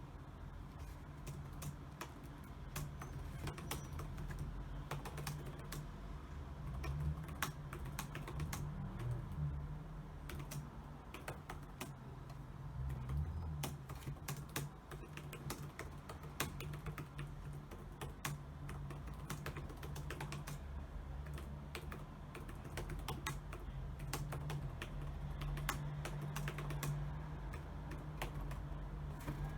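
Steady, continuous typing on a computer keyboard: quick, irregular keystroke clicks with brief pauses between bursts, over a steady low hum.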